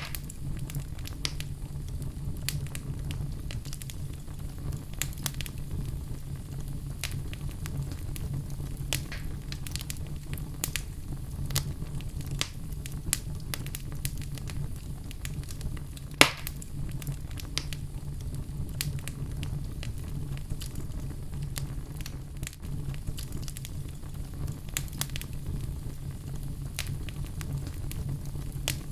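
Wood fire burning in a fireplace, crackling with many small irregular snaps over a steady low rumble. One much louder pop comes a little past halfway.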